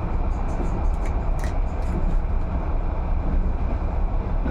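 Steady low rumble of a moving train heard from inside a passenger carriage, with a few faint clicks a second or so in.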